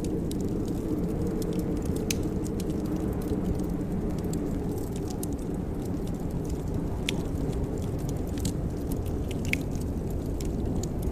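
Wood fire crackling in a fireplace: a steady low rumble with scattered sharp pops and snaps.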